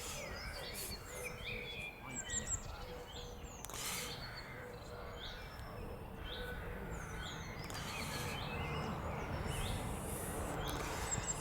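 Small birds chirping, with many short falling notes repeated throughout, over a steady low background noise.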